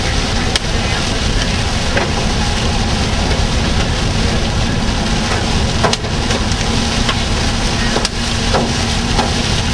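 Car driving at speed, heard from inside the cabin: a steady rushing of road and wind noise, with a few scattered sharp taps.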